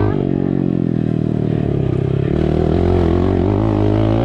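Honda dirt bike engine running through a gutted exhaust with no silencer insert, its revs rising and falling and climbing near the end.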